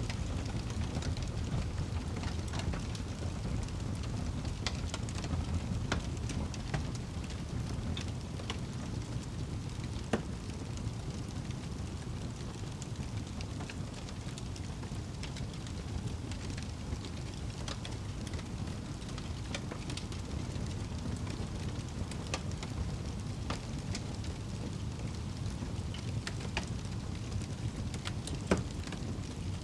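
Wood fire in a fireplace crackling, with irregular sharp pops over a steady low rumble; two louder pops, one about ten seconds in and one near the end.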